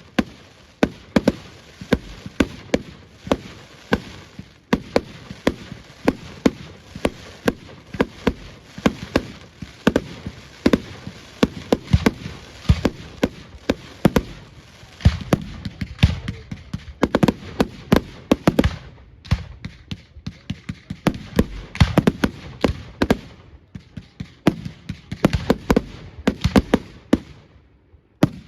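Fireworks display: a rapid, continuous barrage of bangs and crackling bursts, several a second, thinning out in the last few seconds.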